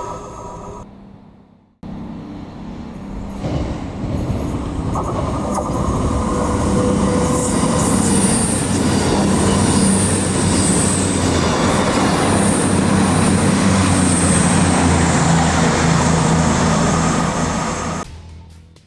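Train running past at close range: a steady loud rumble with low droning tones, and a high squeal that comes and goes in the middle. The sound cuts in about two seconds in and fades out near the end.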